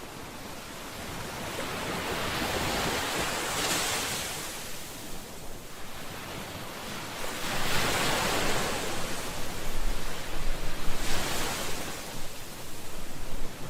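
Ocean waves breaking and washing up the shore, the surf swelling and ebbing in repeated surges every three to four seconds.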